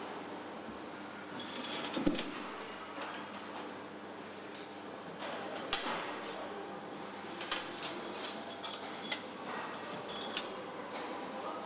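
Truck assembly-line ambience: a steady background hum of factory machinery with scattered metallic clanks and clicks, some ringing briefly, clustered about two seconds in and again over the second half.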